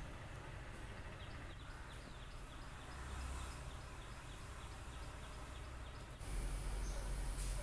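Outdoor ambience with a steady run of short, high chirps, about four a second, over a low rumble. The rumble grows louder about six seconds in.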